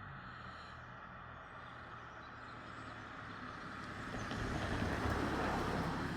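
Train approaching on the line, a steady low rumble that grows louder over the last two seconds.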